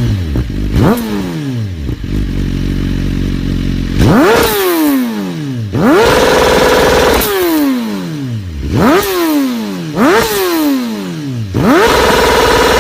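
BMW S1000RR inline-four engine being revved from idle: about six throttle blips, each shooting up and sliding slowly back down to idle. Twice it is held flat at the top, bouncing on the rev limiter.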